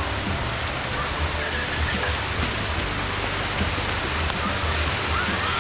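Steady rush of a waterfall: falling water making an even, unbroken noise.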